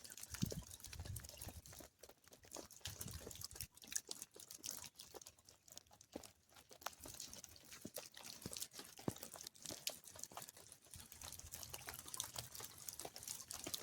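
Faint rain, its raindrops landing as many small, irregular clicks over a low hiss.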